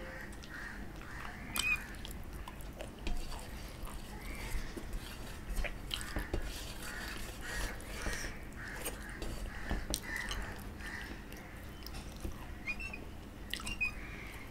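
Close-miked chewing and wet mouth smacks of a person eating rice and curry with his fingers, with many short, sharp clicks scattered throughout.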